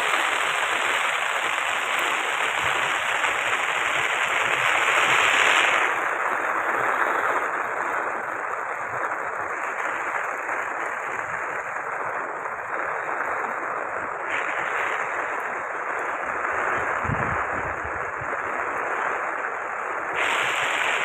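Floodwater rushing over a road bridge in a steady roar of water noise. The higher hiss softens about six seconds in and returns near the end.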